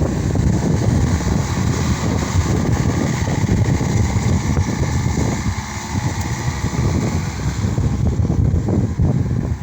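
Case SR200 skid steer loader's diesel engine running, a loud, steady mechanical noise that eases briefly about halfway through.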